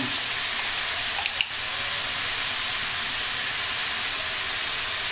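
Chicken pieces frying in hot oil in a steel kadai, a steady sizzling hiss as ginger-garlic paste is added, with one brief knock about a second and a half in.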